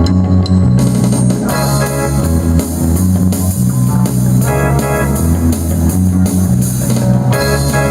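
Live band playing an instrumental funk groove: a strong bass line, guitar chords and drum kit, with cymbals coming in about a second in.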